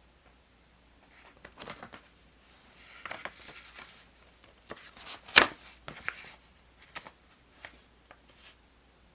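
Paper and stationery being handled during diary decorating: scattered rustles, crinkles and light taps, with one sharp knock about five seconds in.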